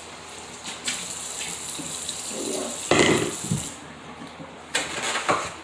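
Kitchen tap running into a sink for about three seconds, splashing louder about halfway through, then turned off. A few short knocks near the end.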